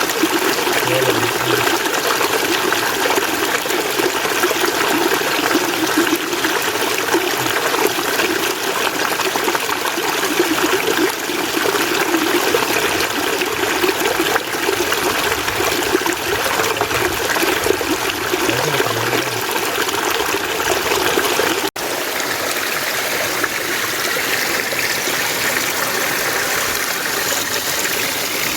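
Mountain stream water running steadily, an even rush and splash. About 22 s in it cuts out for an instant and resumes with a slightly different sound.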